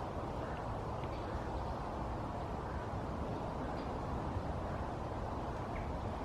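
Steady outdoor background rumble with a few faint, short high chirps.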